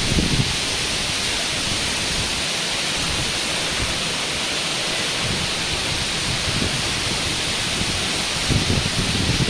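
Steady rush of falling or flowing water, a constant hiss. Wind buffets the microphone at the start and again near the end.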